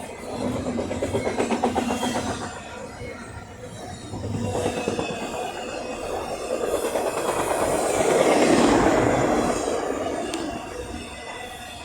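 Double-stack freight train cars rolling past, wheels clicking rapidly over the rail joints with a thin squeal. The sound swells about eight seconds in and then eases off.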